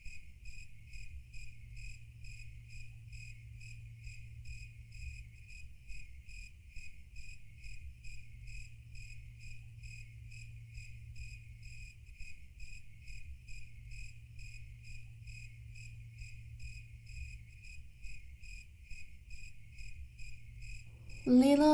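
Cricket chirping in an even, steady rhythm, about three chirps a second, over a steady low hum.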